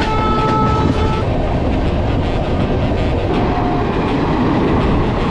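Passenger train running, with steady wheel rumble and clatter on the rails while another train passes close alongside. A horn sounds for about a second at the start, and a short tone comes again about a second after the middle.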